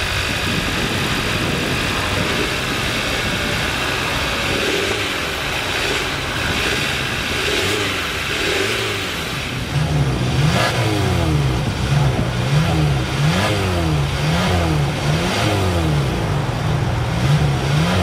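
2022 Hyundai Tucson's 2.5-litre four-cylinder gasoline engine running steadily at idle, then revved in about ten quick throttle blips from about ten seconds in, the pitch rising and falling with each.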